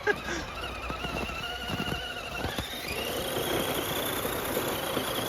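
Electric motor and gears of a radio-controlled crawler truck whining under throttle. The pitch wavers, then rises about two and a half seconds in and holds higher as the motor speeds up.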